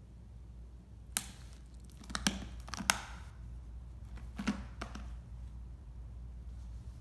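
A few short, sharp clicks and taps over a low steady hum, about five in all, the loudest near the start.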